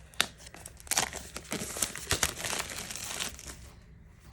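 Packaging crinkling and tearing as a newly arrived tarot deck is unwrapped, in a run of crackly rustles and sharp clicks that dies away near the end.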